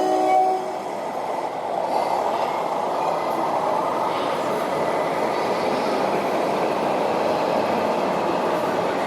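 Radio-controlled model construction machinery running steadily, with the whir of electric motors and gearboxes. A set of steady horn-like tones stops about half a second in.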